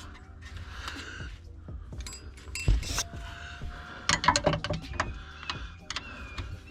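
Clicks and metallic knocks from hand tools and suspension parts as a car's rear strut hardware is worked on. There is one loud knock about two and a half seconds in and a quick run of clicks about four seconds in, with faint music underneath.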